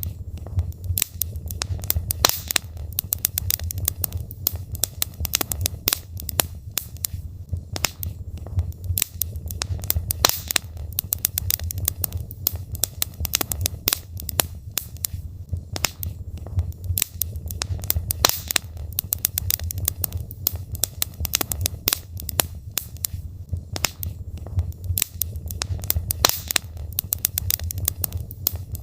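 Wood logs burning in a fireplace, crackling with many sharp pops and snaps over a steady low rumble of the fire.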